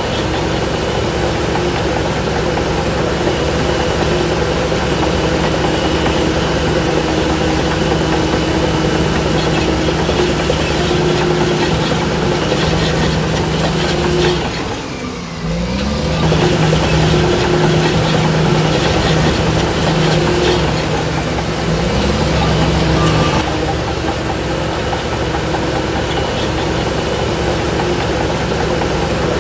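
Heavy diesel engine of earthmoving machinery running steadily under work. About halfway through the engine note briefly drops in level and pitch, then picks up again.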